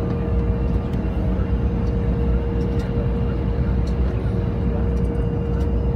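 Cabin noise of an Embraer E175 airliner: the steady rumble of its jet engines and airframe, with one steady tone held over it.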